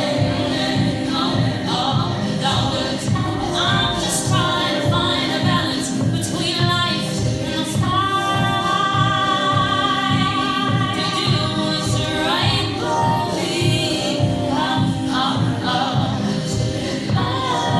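Voices singing over a steady low beat, with one long held note that wavers in pitch from about eight to twelve seconds in.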